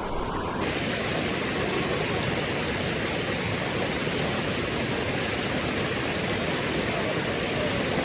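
Steady rushing of storm runoff water flowing down a flooded canyon creek bed.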